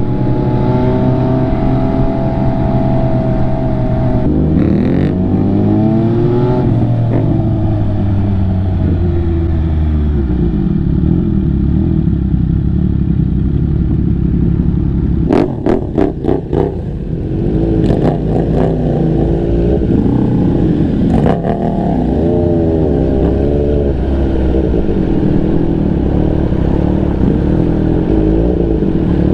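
MV Agusta F3's inline three-cylinder engine running under the rider, holding a steady note, then revving up and dropping back several times as it pulls through the gears. About halfway through it briefly dips with a few sharp clicks before picking up again.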